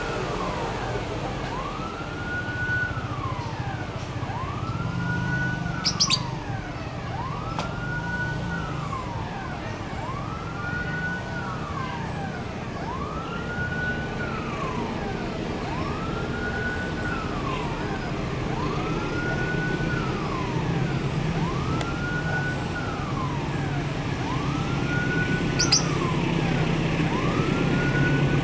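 Electronic warning siren wailing in a repeating rise-hold-fall cycle, about every two and a half seconds, over a low steady drone that grows louder near the end.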